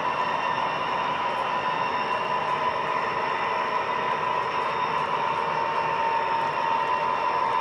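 O gauge model trains running on the layout's track: a steady whir of motors and rolling wheels, with a constant high whine.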